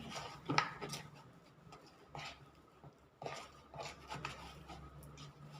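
Quiet handling sounds of bread dough being worked by hand near a greased pan: soft, scattered taps and rubs over a faint steady hum.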